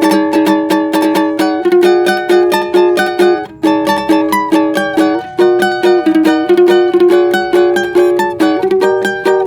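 Plucked string instrument strummed quickly and evenly, about four to five strokes a second, with the chord changing every second or two: an instrumental accompaniment between sung lines.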